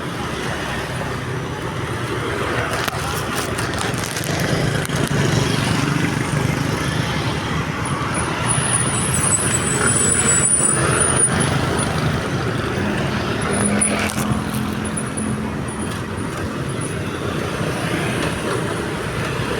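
Road traffic at a railway level crossing, vehicle engines running steadily, with a high-pitched squeal about eight seconds in.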